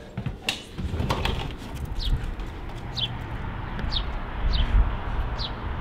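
A bird chirping outdoors: short high chirps, each falling in pitch, about once a second, over a low steady rumble.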